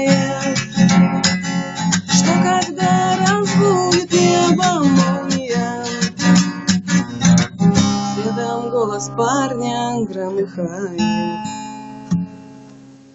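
Acoustic guitar strumming with a melody line over it, slowing after about eight seconds to a few single notes and a last chord that rings out and fades away.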